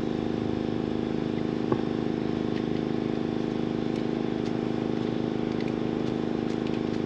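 A motor running steadily at idle, a constant droning hum, with a single sharp click a little under two seconds in.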